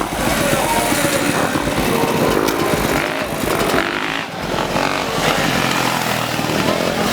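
Off-road motorcycle engines running and revving.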